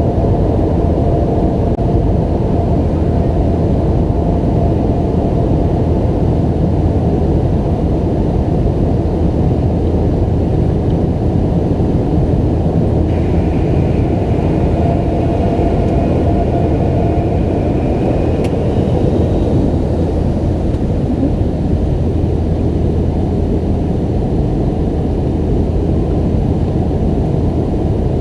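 Cabin noise of a McDonnell Douglas MD-90-30 heard from a seat near its tail-mounted IAE V2500 engines: a loud, steady drone of engines and rushing air.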